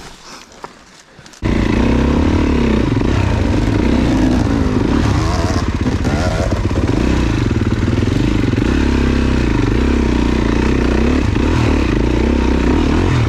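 Dirt bike engine that comes in suddenly about a second and a half in, then runs loud and close with the revs rising and falling.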